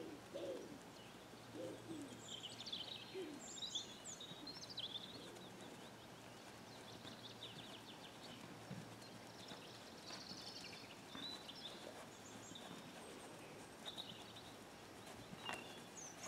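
Wild birds chirping and singing, in a busy run of quick calls over the first few seconds and then scattered calls, over a faint steady low hum of outdoor background noise.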